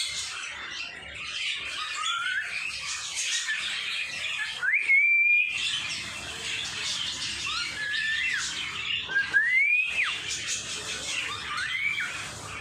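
Pet birds chattering continuously, with about five rising whistled calls over the chatter; the loudest rises and holds for about a second near the middle, and another rising whistle cuts off sharply about two-thirds of the way through.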